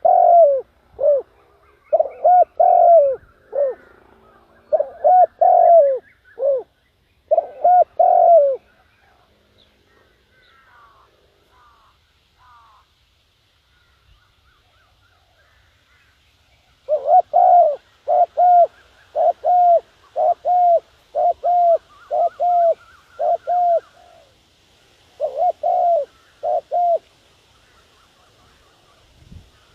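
Spotted dove cooing its repeated phrases, a decoy bird calling to draw in wild doves. Two long bouts of coos with a pause of several seconds between them, in which fainter chirps of other birds are heard.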